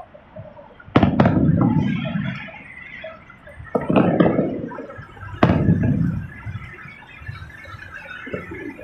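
Fireworks going off overhead: a double bang about a second in, then single bangs near four and five and a half seconds, each followed by a rolling rumble of echo, with scattered faint crackling in between.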